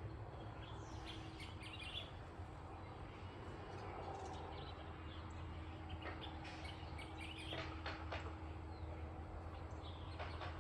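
Wild birds chirping and calling, short high chirps and trills coming again and again, over a steady low hum.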